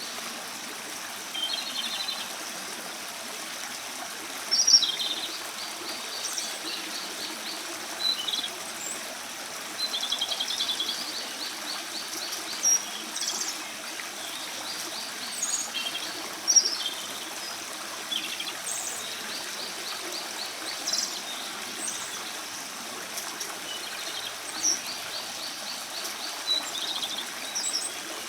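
Japanese robin singing: phrases every few seconds, each a sharp high note followed by a fast rattling trill, over a steady rush of running water.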